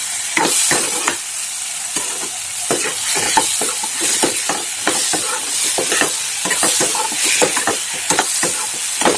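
Metal ladle scraping and knocking against a wok as chicken pieces are stirred into a masala frying in ghee: rapid, irregular scrapes over a steady sizzle.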